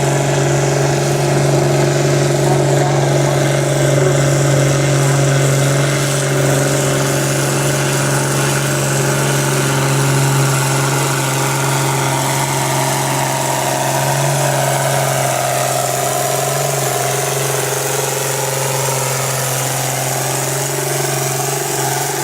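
David Brown 1210 tractor's three-cylinder diesel engine working hard under load while pulling the sled, holding a steady, heavy note with only slight shifts in pitch.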